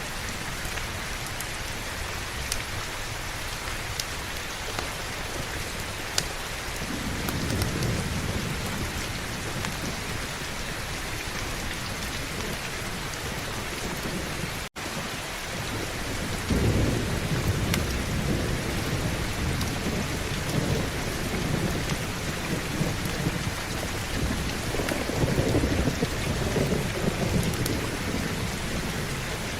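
Steady heavy rain with rolling thunder: a low rumble builds about seven seconds in, and a louder, longer roll starts just past halfway and fades near the end. The sound cuts out for a split second about halfway through.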